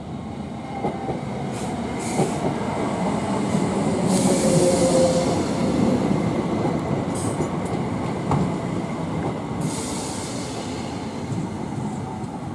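Class 321 electric multiple unit pulling into the platform, its wheel and rail noise building to a peak about halfway through and then easing as it slows. Short high hisses come through several times.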